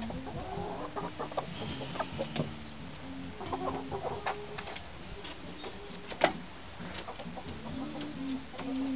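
Hens clucking and murmuring in short repeated low calls, with scattered sharp pecks or clicks and one louder knock about six seconds in.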